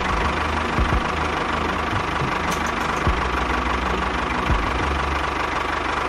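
Tractor engine idling steadily with a knocking chug.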